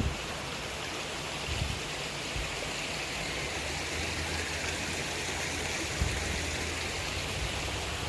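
Water fountain splashing steadily, a continuous rushing hiss of falling water, with a couple of low bumps about one and a half and six seconds in.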